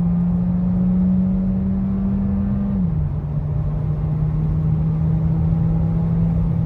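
Skoda Karoq 1.5 TSI four-cylinder petrol engine pulling under acceleration, its pitch slowly climbing, then dropping a step about three seconds in as the DSG gearbox shifts up, and holding steady after it, over road rumble.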